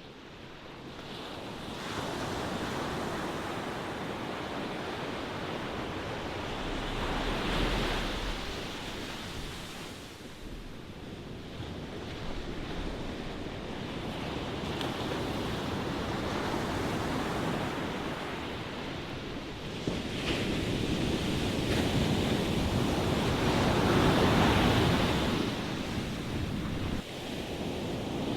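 Ocean waves breaking and washing in, a rushing hiss that swells and recedes, with the biggest surges about eight seconds in and again about twenty-four seconds in.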